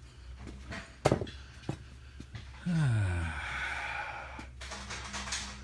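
A man's sigh: a short voiced note falling in pitch that trails into a long breathy exhale, a little under three seconds in. A brief click comes about a second in.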